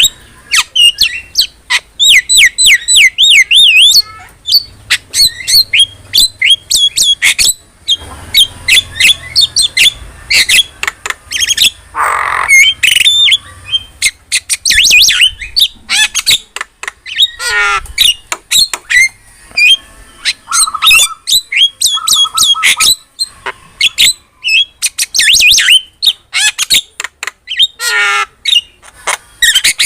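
Javan myna singing vigorously: a rapid, varied run of sharp whistles, rising and falling chattering notes and squawks, with a longer harsh rasping call about twelve seconds in.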